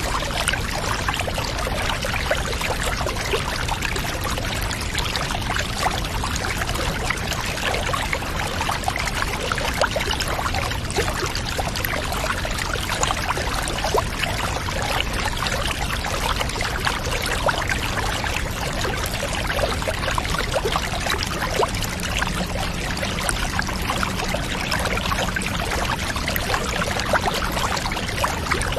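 Steady running, trickling water, a constant splashing stream. A faint low hum joins about two-thirds of the way in.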